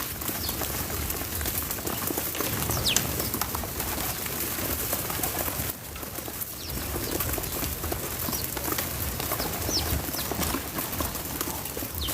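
Backyard birds calling: a handful of short, high chirps that slide downward, spaced a few seconds apart, over a steady outdoor hiss and low rumble.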